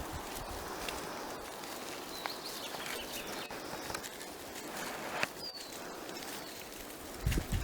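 Footsteps and rustling through forest-floor litter, with scattered small snaps, a few short high bird chirps, and a couple of low thumps near the end.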